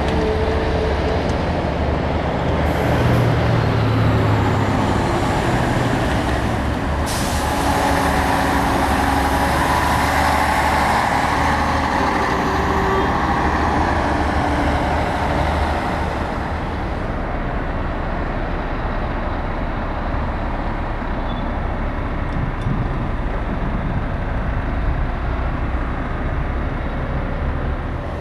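Heavy diesel trucks running and driving past, the engine noise swelling around the middle and easing off after.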